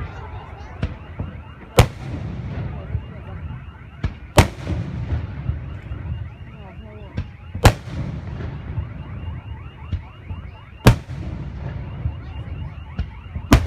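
Aerial fireworks shells bursting: five loud booms about three seconds apart, with smaller pops between them, over a steady low rumble.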